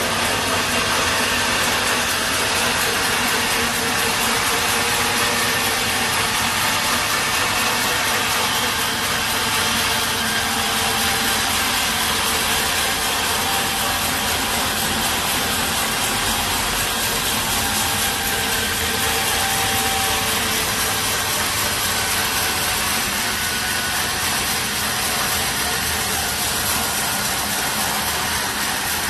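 Sawmill machinery running steadily: a continuous dense mechanical noise with a few faint whining tones, even in level throughout.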